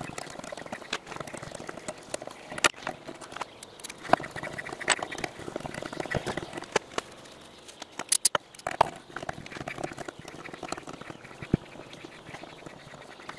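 Irregular clicks, short scrapes and squeaks of hand tools working on a cast iron part.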